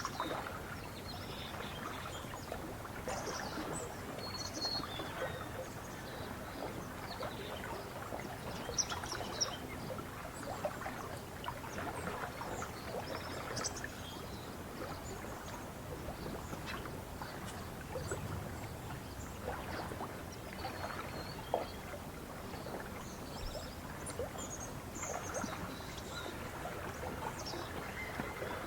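Small waves lapping and slapping at a lake's edge in a steady irregular patter, with scattered short bird chirps over it.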